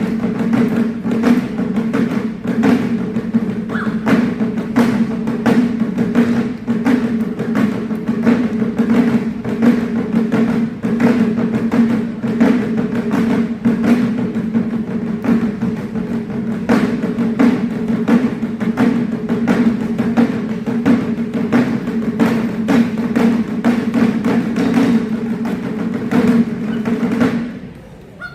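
Ensemble of Japanese taiko drums struck with sticks, played in a fast, dense rhythm with deep resonant drum tones under sharp hits. Near the end the drumming breaks off for a moment.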